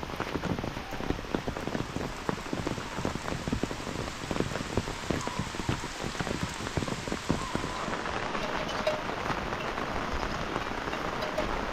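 Heavy rain falling, with many individual drops striking close by in a dense patter over a steady hiss; the close drop hits thin out about eight seconds in.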